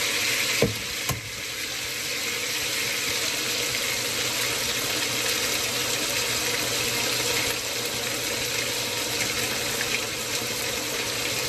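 Diced chicken and garlic sizzling steadily in a wok. Two sharp knocks about half a second apart near the start: an egg being cracked against the wok.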